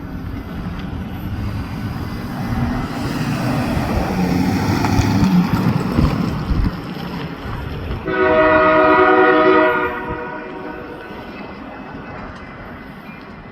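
Diesel-hauled passenger train rumbling past, growing louder toward the middle. About eight seconds in, the locomotive sounds one long horn blast of nearly two seconds, several notes held together.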